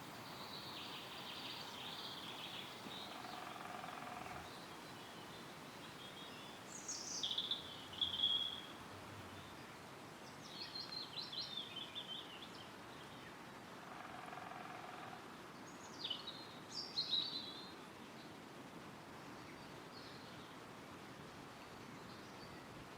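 Woodland ambience: a steady rustle of wind through trees with songbirds singing in short, high, chirping phrases. There are three louder bursts of song, a third of the way in, about halfway and about three quarters through.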